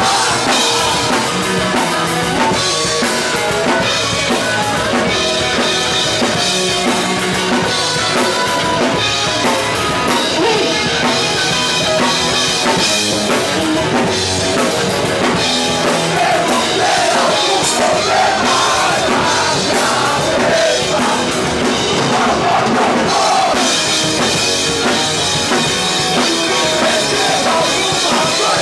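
Punk rock band playing loud and steady, full drum kit with distorted electric guitars and bass, and a voice singing partway through.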